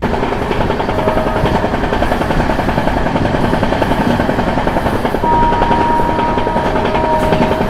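Passenger train coaches running along the track, heard from an open door with heavy wind rushing and buffeting over the microphone. A faint high whistle comes and goes over the noise.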